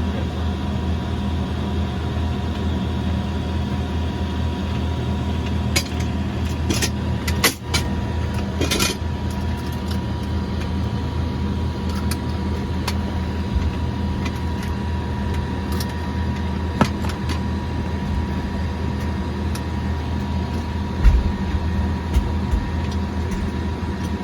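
Cessna 208B Grand Caravan EX's single Pratt & Whitney PT6A-140 turboprop running steadily, heard inside the cabin, with a low drone and a thin high whine. A few sharp clicks come about six to nine seconds in, and a low thump comes near the end.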